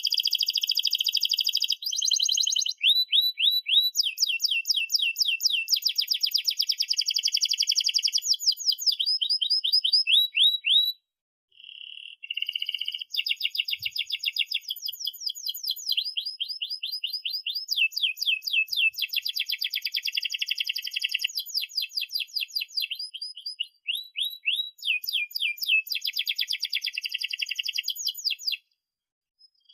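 Domestic canary singing a long rolling song: fast runs of rapidly repeated high notes, each run switching to a new pitch every second or two, with short breaks about eleven seconds in and near the end.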